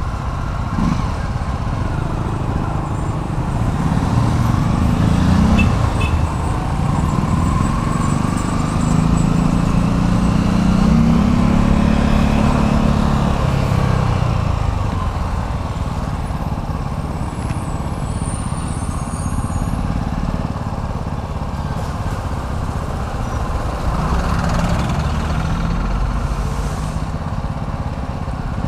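City road traffic: steady engine and tyre noise, louder about 4 to 14 seconds in as a heavy vehicle's engine passes, and again briefly near the end.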